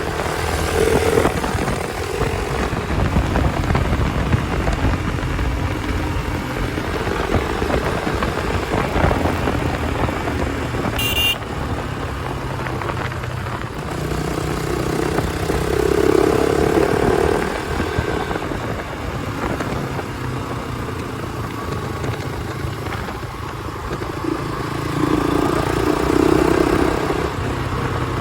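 Hero Xpulse 200 single-cylinder motorcycle running on the road through a newly fitted aftermarket exhaust, its note swelling louder a few times, with a brief sharp high sound about eleven seconds in.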